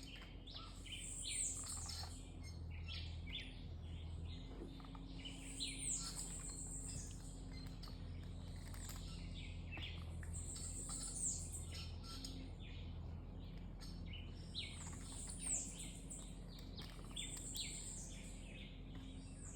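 Rainforest ambience of wild calls: a high chirping call that recurs every few seconds over a busy chorus of fainter chirps and clicks.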